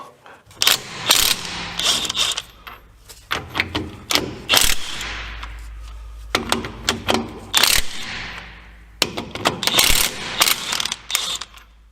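Ratchet wrench clicking in repeated spells as it turns out the 3/4-inch bearing cap bolts on a Ford 9.75-inch rear differential.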